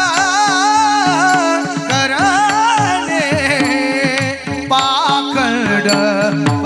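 Male kirtan singer holding a wordless, ornamented melodic line that glides and wavers in pitch, over a steady held drone and regular hand-drum strokes.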